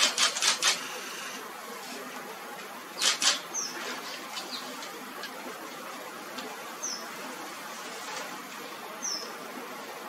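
Birds calling: short, high, falling chirps every two to three seconds over a steady background hiss. Four loud, sharp sounds come in quick succession at the start, and two more about three seconds in.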